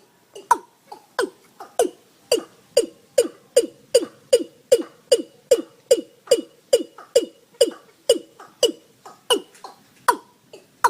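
Watercock calling: a long series of hollow notes, each falling in pitch, about two a second, coming faster in the middle and spacing out again near the end.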